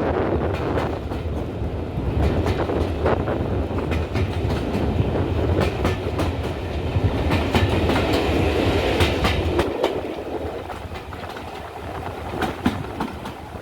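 Steam railway train running along the line, its wheels clicking irregularly over the rail joints over a steady rumble; the sound eases off over the last few seconds.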